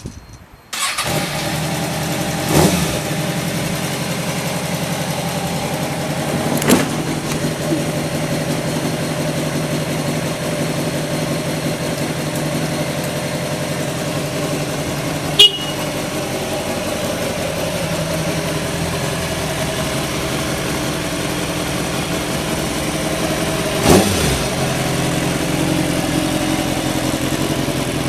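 Kawasaki ZX-6R (ZX636C) inline-four with a Tsukigi aftermarket muffler catching on the first press of the starter, then idling steadily and evenly, the sign of a healthy idle. Three short throttle blips come through, and a single sharp click about halfway.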